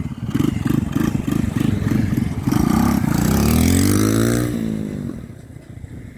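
Small engine of a radio-controlled quad bike, throttled in quick pulses about three times a second, then held open with its pitch rising for about two seconds before the sound fades away.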